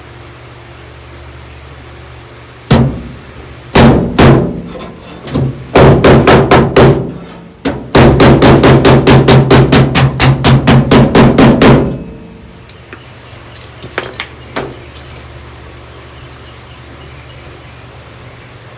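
Hammer striking a sheet-steel floor patch held against a body dolly, shaping a rounded contour into it. A few scattered blows, then a fast even run of about four blows a second for some four seconds, then a few light taps.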